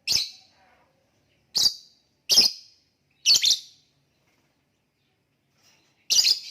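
Lovebird giving short, high-pitched chirps, five in all, the first four about a second apart and the last after a pause of about two seconds.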